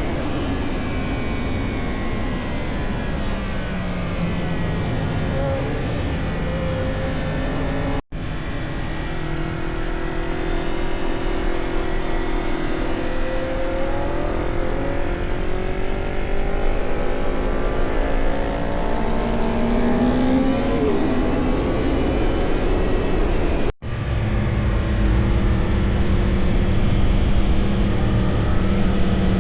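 Motorcycle engine at track speed, its pitch rising and falling with throttle and gear changes, over a steady rush of wind noise. The sound cuts out for an instant twice, about eight seconds in and near the end.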